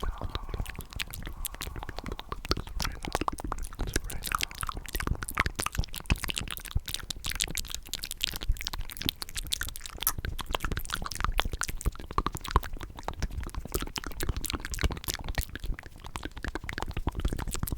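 Close-miked ASMR mouth sounds: a dense, irregular run of wet clicks, smacks and pops from the tongue and lips.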